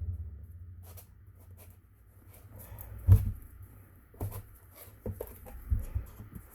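A few dull thumps and faint rustling of cardboard and paper being handled and pressed down on a tabletop. The loudest thump is about three seconds in.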